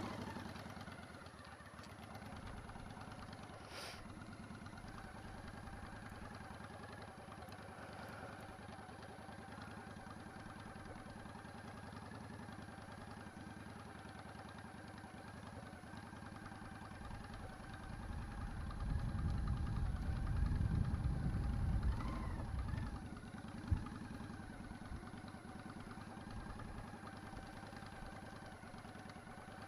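Motorcycle engine running steadily as the bike is ridden slowly. A louder low rumble swells for about five seconds past the middle, and there is a brief knock just after it.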